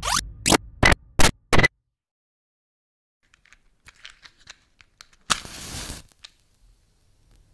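Five sharp, loud clicks in quick succession, then faint crackling, and about five seconds in a wooden match struck and flaring with a short hiss.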